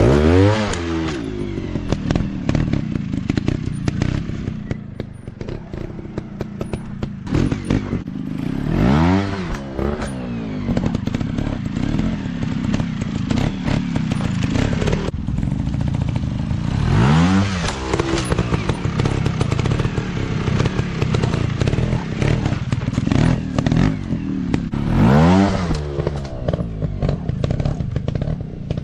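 Dirt bike engines running, with the engine pitch sweeping up and back down four times, about eight seconds apart, as the throttle is opened and closed. A steady low engine note and rattling clatter run underneath.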